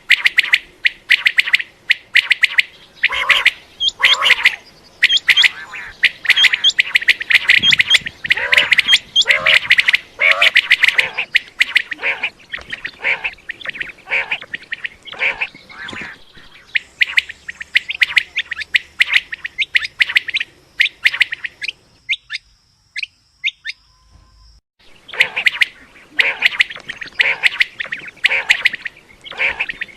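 Common quail calling over and over in quick short notes, a dense run of calls that pauses for about three seconds a little past two-thirds of the way through, then starts again.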